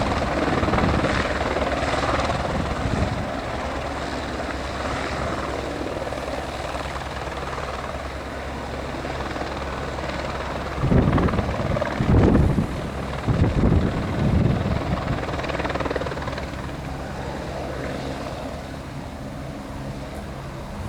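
Helicopter running with a steady engine and rotor sound, in strong wind. Gusts of wind buffet the microphone with loud low rumbles about halfway through.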